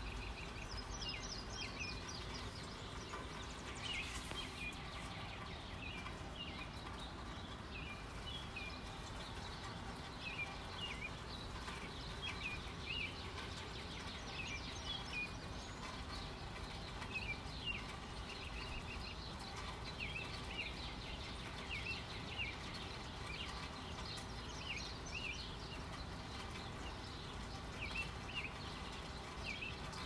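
Birds chirping in many short calls throughout, over a steady low background noise.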